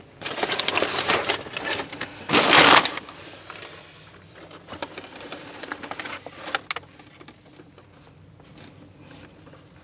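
Handling noise: rustling and clattering as something is pulled out and moved about, loudest about two and a half seconds in. A few lighter clicks and knocks follow, dying away about seven seconds in.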